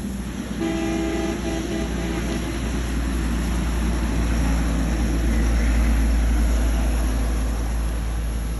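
A vehicle running with a steady low rumble and hiss, plus a brief pitched tone with overtones lasting about two seconds near the start.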